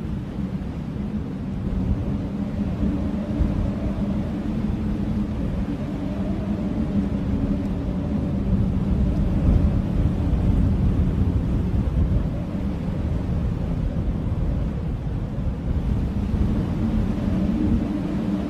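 Blizzard wind howling: a deep, steady rush of wind with wavering moaning tones that swell and ease slowly.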